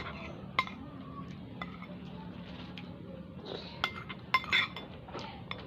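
Cutlery clinking against a bowl while noodles are being eaten: a few separate clinks, with several close together about four seconds in.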